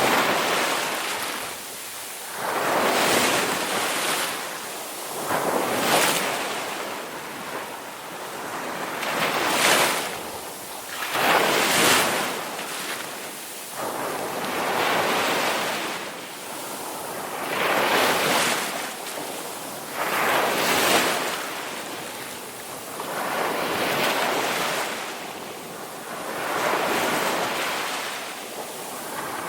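Ocean waves breaking and washing in, a surge of surf every two to four seconds.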